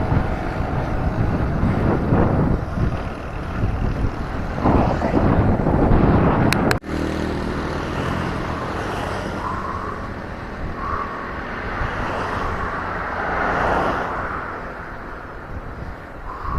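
Road traffic heard from a moving bicycle: motor vehicles going by, with a louder pass swelling and fading about five to six seconds in. The sound cuts out for an instant about seven seconds in.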